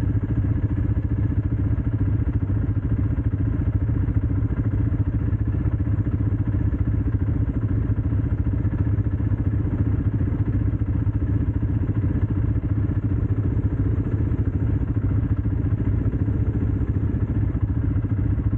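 ATV engine running at a steady speed, a continuous low engine note that does not rise or fall.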